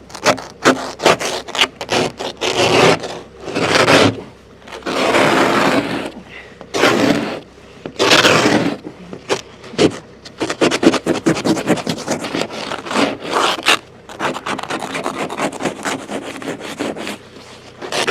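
Ice scraper scraping frost off a vehicle's windscreen, with long strokes at first and then quick, short, repeated strokes from about ten seconds in.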